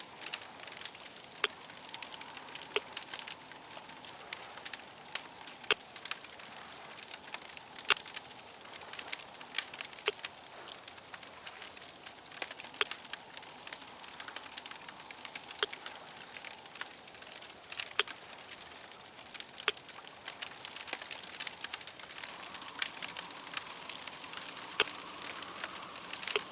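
Crackling fire: a steady hiss with many irregular sharp pops and snaps.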